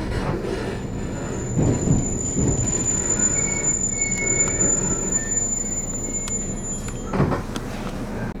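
The low rumble of a JR Kyushu 813 series electric train, heard from inside the car, with a thin steady high-pitched squeal that sounds from about a second in to about seven seconds. A short knock comes near the end.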